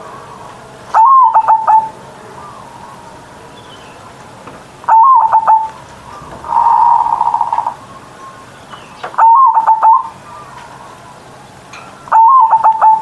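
Zebra dove (perkutut) cooing loudly: four full calls about 3–4 s apart, each a rising-and-falling note followed by a quick run of short clipped notes, with a longer rolling, buzzy coo between the second and third.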